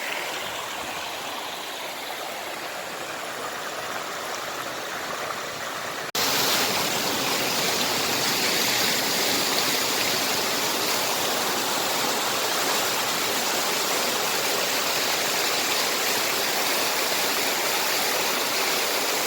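Mountain stream water rushing over rocks in a steady wash. About six seconds in it turns abruptly louder and fuller.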